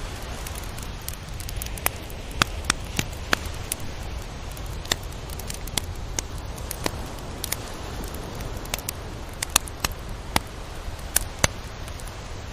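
Tropical beach ambience: a steady wash of surf with a low rumble, scattered with irregular sharp clicks and crackles.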